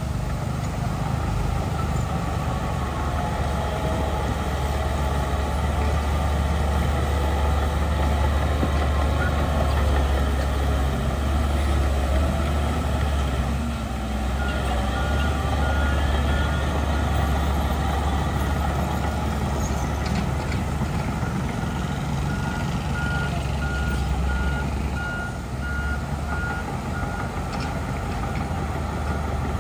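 Heavy diesel earthmoving machinery running steadily with a deep, even engine note. A vehicle reversing alarm twice beeps in quick, even pulses for a few seconds, once around the middle and again later.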